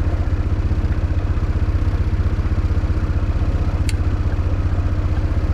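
An engine idling steadily with an even, rapid low throb. A single sharp click sounds about four seconds in.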